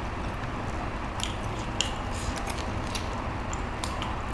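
People eating steamed chicken by hand: scattered small wet clicks and crackles of chewing and tearing meat over a steady background hiss.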